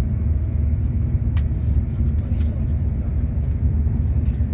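Steady low rumble of a passenger train running along the line, heard from inside the carriage, with two faint clicks about a second and a half and two and a half seconds in.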